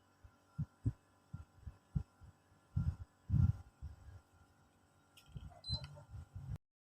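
Soft, irregular low thumps of handling noise: an air-conditioner remote control being held and worked close to the microphone. There is a brief faint high tone near the end, and then the sound cuts off suddenly.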